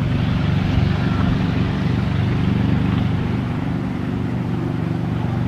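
Steady low engine drone with an even rushing noise over it.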